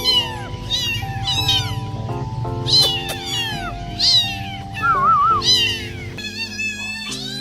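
Kittens meowing: a string of short, high-pitched meows, several a few seconds apart, over background music.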